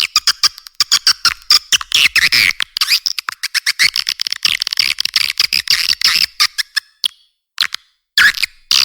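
Recorded swiftlet calls: a dense, rapid chatter of high-pitched twitters and clicks that thins out about seven seconds in, then a short pause before the calls resume near the end. This is a swiftlet lure sound (SP walet), played in swiftlet houses to draw the birds in to roost and nest.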